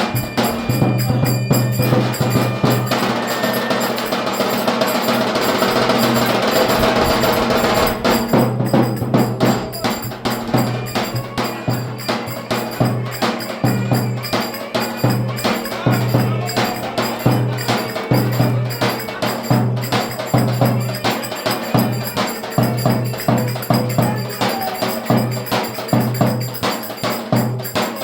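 Turkish folk dance music (oyun havası) with a steady, driving drum beat. There is a denser, hissing wash over the music for the first few seconds.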